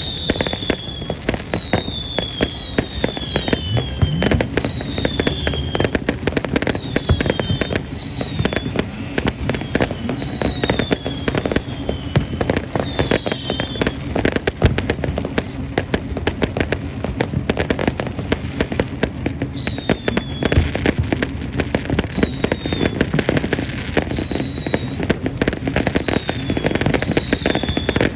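Fireworks display: a continuous dense crackle of rapid bangs, with many short whistles that slide down in pitch, one after another, from whistling fireworks.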